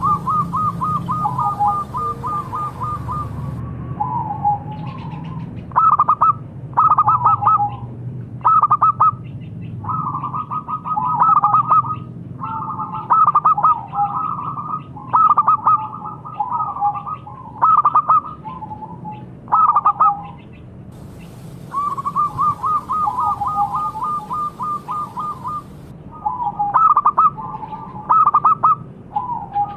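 Zebra dove (local perkutut) cooing: a fast rolling trill of coos, then a run of short rhythmic cooing phrases, and the rolling trill again about two-thirds of the way through.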